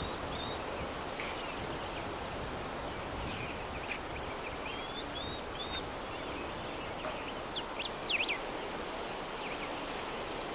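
Steady soft breeze with a gentle rustle, and small birds chirping and whistling here and there, with a louder flurry of chirps near the end.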